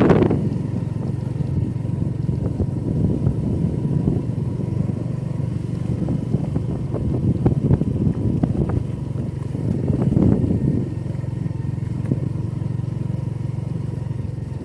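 Motorcycle engine running steadily while the bike is ridden along the road, a continuous low drone with rough rushing swells over it.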